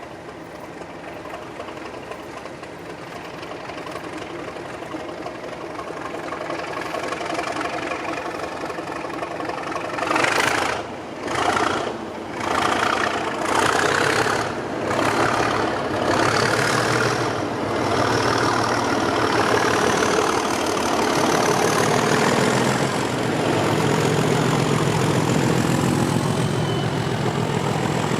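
English Electric 12CSVT diesel engine of Class 37 locomotive 37109 running under power and growing steadily louder as it approaches. Partway through it pulses loudly several times, then settles into a steady low engine note with the turbocharger's high whine rising in pitch over it.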